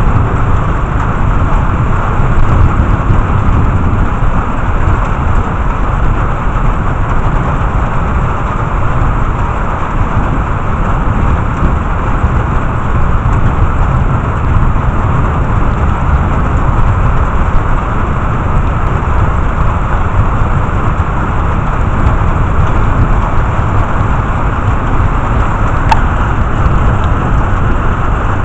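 Steady rain during a thunderstorm, with a constant low rumble underneath.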